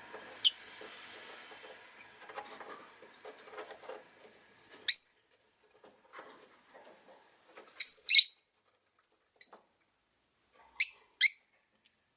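Rosy-faced lovebirds chirping: loud, sharp, high-pitched single chirps and quick pairs of chirps, over softer twittering in the first few seconds.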